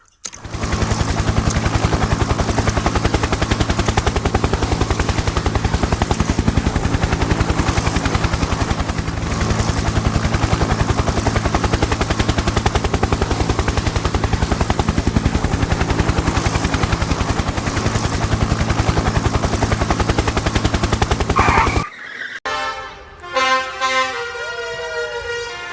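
A vehicle engine running steadily with a rapid, even pulse for about twenty seconds, then cutting off suddenly. After a short gap comes a pitched, horn-like sound of several tones near the end.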